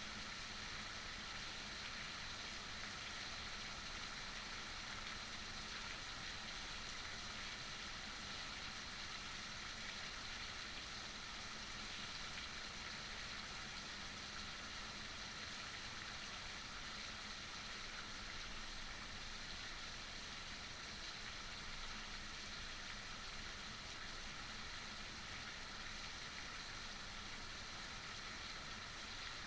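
Heavy rain falling steadily, an even hiss of water with no change in intensity.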